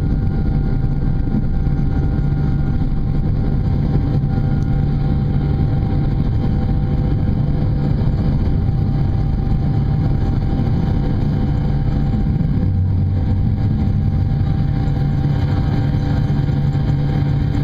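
Airliner jet engines heard from inside the passenger cabin during takeoff and climb: a loud, steady rumble with a steady hum.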